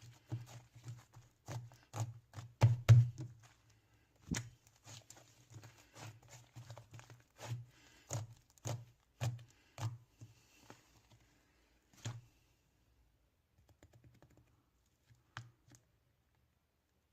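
Hands squeezing, poking and stretching slime, giving irregular sticky clicks, pops and soft thuds that thin out to a few faint ticks near the end.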